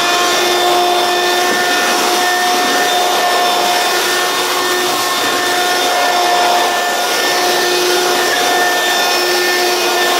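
Hoover Quik Broom Encore S2551 stick vacuum running steadily on its high speed setting: a loud, even whine with several steady tones over a rush of air.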